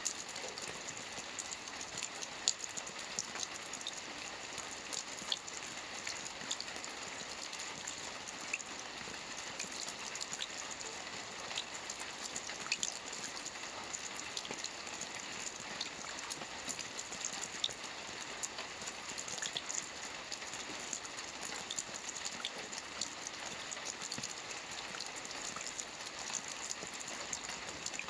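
Soft rain falling steadily on a roof: many small, sharp drop ticks over an even hiss.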